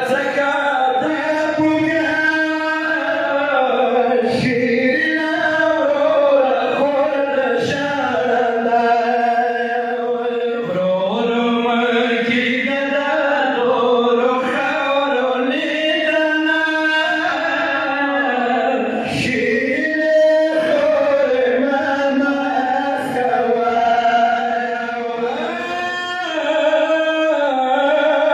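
Male voices chanting a mourning lament in long, drawn-out melodic phrases, each broken by a short pause.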